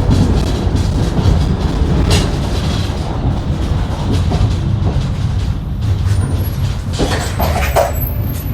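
Sound inside a city tram: a steady low rumble from the wheels and running gear, with occasional knocks. There are a few short high-pitched squeaks near the end.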